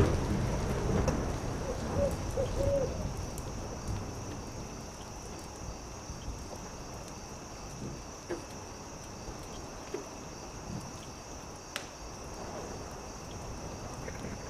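Campfire crackling with scattered sharp pops over a steady chorus of crickets, with a low rumble in the first couple of seconds. About two seconds in, an owl gives a short run of brief hoots.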